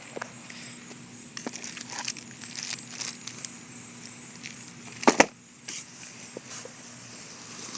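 Fireworks crackling and popping in scattered small bursts, with one sharp, louder pop about five seconds in.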